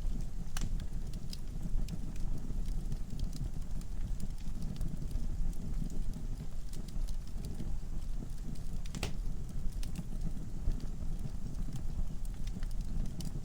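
Wood fire burning in a fireplace: a steady low rumble of flames with irregular crackles and pops from the logs, one sharper crack about nine seconds in.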